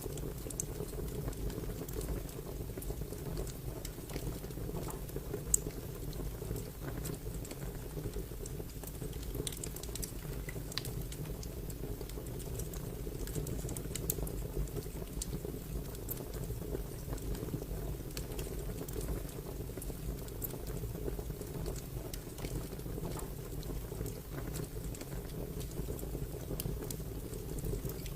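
Crackling wood fire: a steady low rush of flames with scattered sharp pops and crackles at irregular moments, one louder pop about five seconds in.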